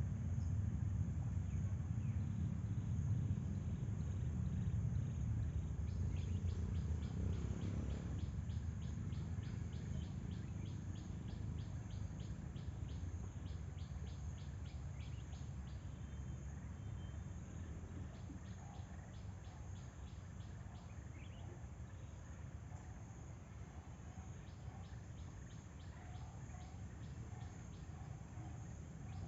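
Outdoor nature ambience: an insect, cricket-like, chirps in runs of about three pulses a second that stop and start, over a steady high insect hum. Faint bird calls come in during the second half. A low rumble under it all fades gradually.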